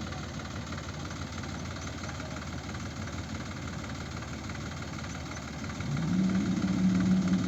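Diesel engine of a tractor or backhoe loader running at low speed. About six seconds in it revs up: the engine note rises, then holds higher and louder.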